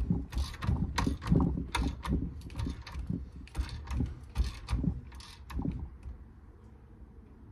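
Hand ratchet clicking in short, uneven strokes as it winds a coil spring compressor tighter. The clicking stops about six seconds in.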